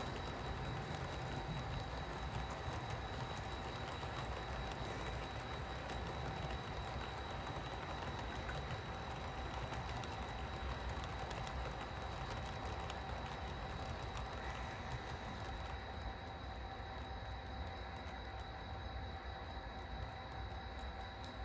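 HO-scale model train running along the track: a steady low rumble and hum with faint clicking from the wheels, getting a little quieter after about sixteen seconds.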